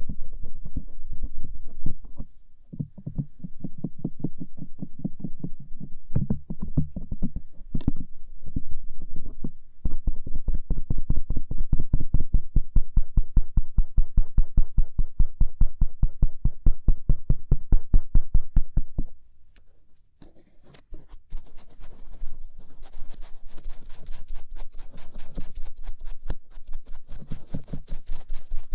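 Stainless-steel ear pick rubbing and scraping the outer ear in quick, even, rhythmic strokes, heard in the right ear. About two-thirds of the way through it changes to a cotton swab rubbing the left outer ear, a hissier brushing sound.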